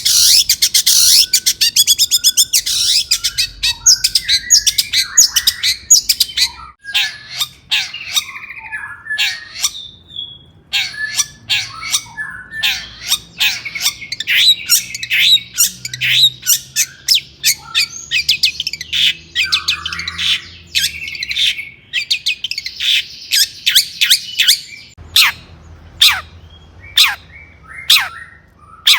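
Long-tailed shrike (cendet) singing hard: a fast, dense rattling trill over the first few seconds, then an unbroken string of sharp, varied high notes and chatter, with a few quickly falling notes near the end.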